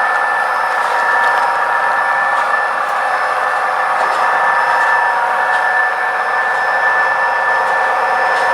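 Model train running steadily on the layout: an even whirring hum with a thin, steady high whine on top.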